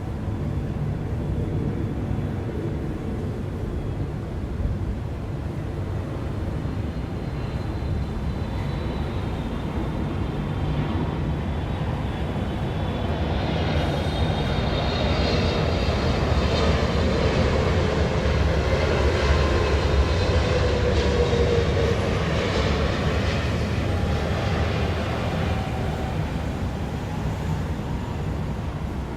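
An airplane passing overhead: its noise builds to a peak about two-thirds of the way through, with a high whine and a tone that falls slightly in pitch, then fades. It sits over a steady low rumble of city traffic.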